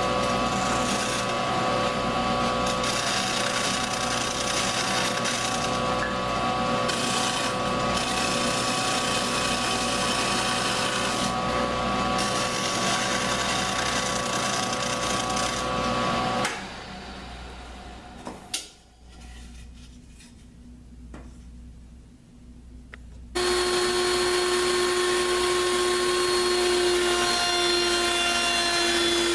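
Electric power tool motor running at a steady speed, stopping suddenly about halfway through. After a quieter stretch with a click, a power tool runs steadily again with a different pitch.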